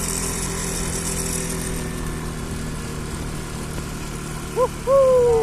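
Bajaj Pulsar NS200's single-cylinder engine running steadily while riding, with wind hiss. Near the end a brief pitched tone and then a louder tone that slides down in pitch.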